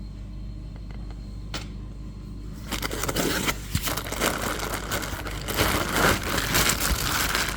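Packaging being handled: quiet at first with a single click, then from about three seconds in a steady crinkling and rustling as the figure's wrapping is pulled about.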